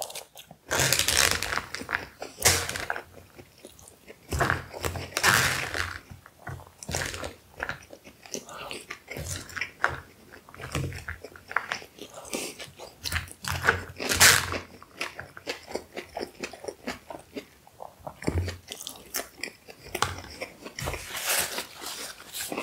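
Close-up chewing and biting of beef shawarma: wet mouth sounds and crunches come irregularly, many times a second, throughout.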